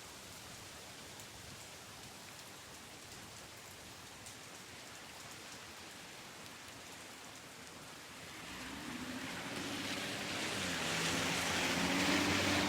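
Steady rain falling. About eight seconds in, an engine with a low hum rises over the rain and grows louder toward the end.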